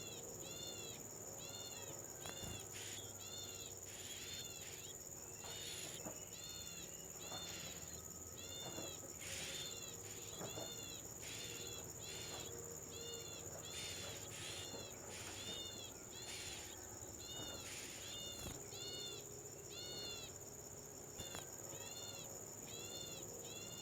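A bird giving short, arched call notes over and over, about two a second, over a steady high-pitched insect hum, with a few brief rustles.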